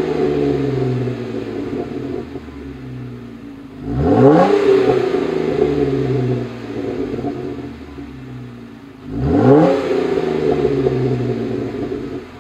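Jeep Wrangler JK's 3.6-litre V6 running through a Flowmaster Force II axle-back exhaust with an 80 Series cross-flow muffler, free-revved twice. The first rev comes about four seconds in and the second about nine seconds in; each climbs quickly in pitch and then drops back to idle.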